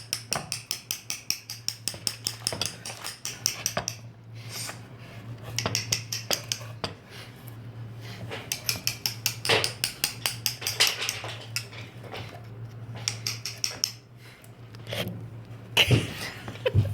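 Mallet tapping a carving chisel into wood, in quick runs of several light strikes a second, with short pauses between the runs.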